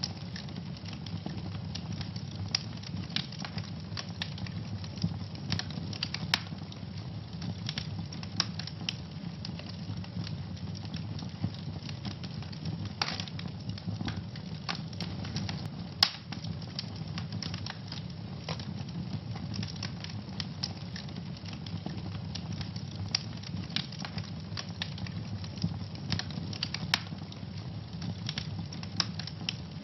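Wood fire burning in a fireplace: a steady low rumble of flames with frequent irregular crackles and pops, one sharp pop louder than the rest about halfway through.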